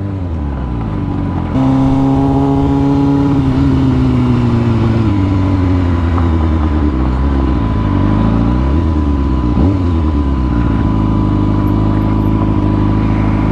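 Motorcycle engine running while riding. The revs jump about a second and a half in, then ease down slowly, with a few more rises and falls in pitch.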